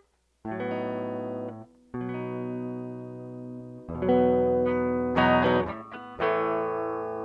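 Guitar playing slow, ringing chords, E major 7 and A sus2, about five chords each struck and left to sustain, the first about half a second in.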